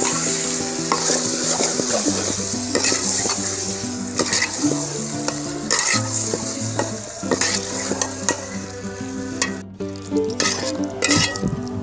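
Chicken frying and sizzling in a pan of spiced masala for chicken kosha, stirred and scraped with a spatula in repeated strokes; the sizzle thins out after about nine seconds. Background music plays underneath.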